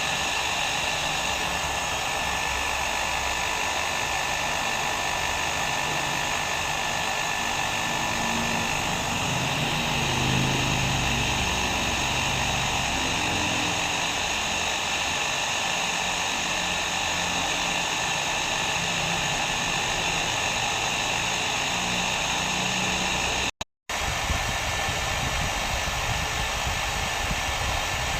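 Hair dryer running steadily, a constant rush of blown air with a faint steady whine. About three-quarters of the way through it cuts out for a split second, then resumes unchanged.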